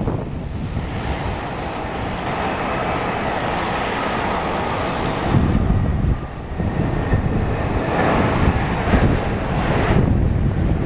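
Wind buffeting the microphone over the steady rumble and faint whine of an Airbus A320-232's IAE V2500 jet engines on landing approach.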